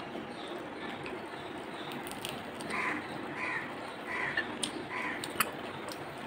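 A bird calling four times in quick succession, the calls about two-thirds of a second apart, with a few sharp clicks from fingers working at fried fish on a plate.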